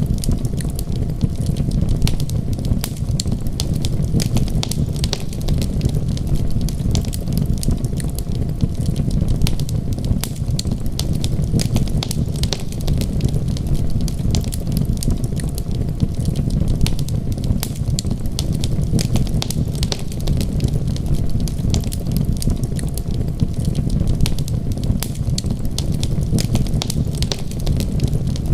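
Wood fire crackling, with many small sharp pops and snaps over a steady low rumble.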